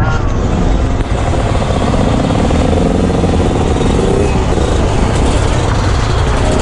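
Motorcycle riding at speed: the engine runs under a loud, steady rush of noise, its note rising and falling a little.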